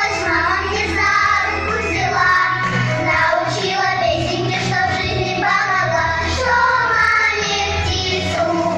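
A children's song: a child's singing voice over instrumental music with a steady beat.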